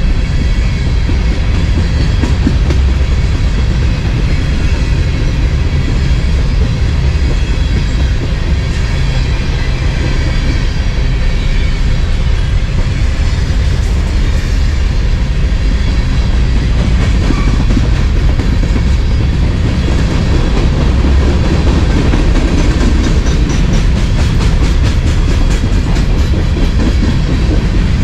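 CSX covered grain hopper cars rolling past close by: a loud, steady rumble of steel wheels on rail. The clicking of wheels over rail joints becomes more frequent near the end.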